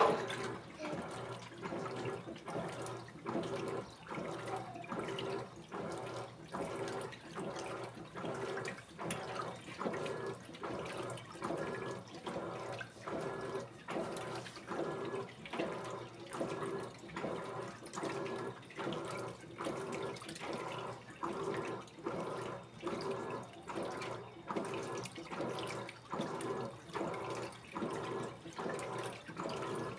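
Electrolux Essential Care 14 kg top-loading washing machine agitating a load of clothes in water: the water sloshes back and forth in an even swishing rhythm about once a second.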